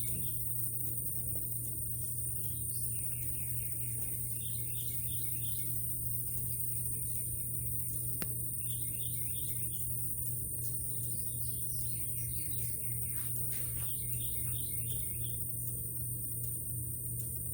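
A songbird singing short trilled phrases of quick repeated notes, a phrase every two or three seconds, over a steady low hum and a constant faint high-pitched whine.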